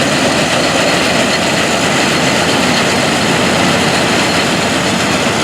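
Vintage farm tractor engine and harvesting machinery running steadily, a loud, even mechanical din.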